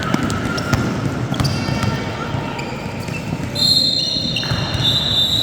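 A basketball being dribbled and bouncing on a gym floor, with sneakers squeaking on the court over the murmur of a crowd echoing in a hall. About two-thirds of the way in, a long high squeal lasts for nearly two seconds.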